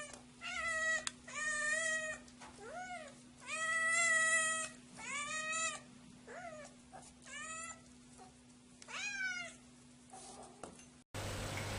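A cat meowing over and over: about nine separate calls whose pitch rises and falls, the longest and loudest about four seconds in. Near the end the sound cuts off abruptly, giving way to a steady hiss.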